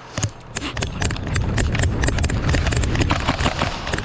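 Fast, irregular knocks and clatter of running footsteps on a hard floor, with a heavy low rumble underneath, starting about half a second in.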